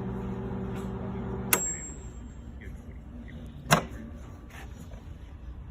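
Iris Ohyama IMB-F182-6 microwave oven running with a steady electrical hum, which cuts off suddenly about a second and a half in with a click and a brief high beep as the heating cycle ends. About two seconds later there is a single louder sharp click.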